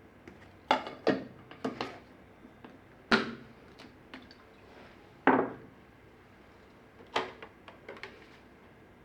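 Kitchenware knocking and clinking: about eight separate sharp strikes, each with a short ring, the loudest about three and five seconds in.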